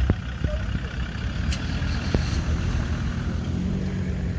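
Car engines running, a steady low rumble with a few short clicks.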